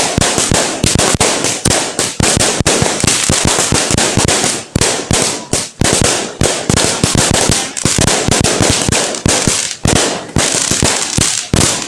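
Fireworks going off in a rapid, irregular barrage of loud bangs and crackles, several reports a second, without letup.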